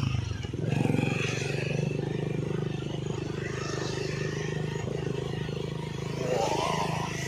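Motor vehicle engine running steadily, revving up briefly about a second in.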